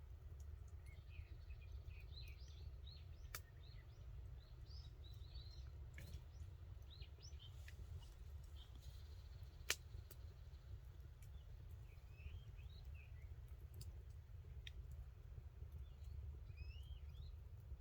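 Faint, scattered bird chirps over a steady low rumble, with a few sharp isolated clicks, one about ten seconds in louder than the rest.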